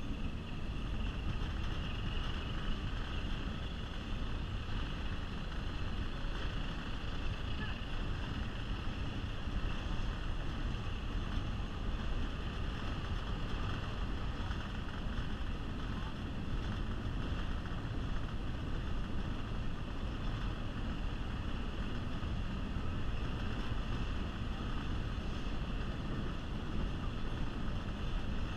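Passenger train rolling across a trestle, heard from an open-air car: a steady running noise of wheels on rail, with wind on the microphone.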